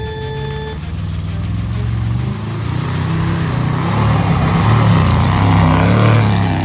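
Pickup truck engine revving hard under throttle, its pitch climbing and shifting, with a growing rush of noise as it pulls away. It gets louder toward the end, then cuts off abruptly.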